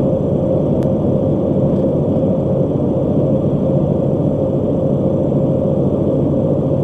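Steady road and engine noise of a car at highway speed, heard inside the cabin, with a constant hum running through it.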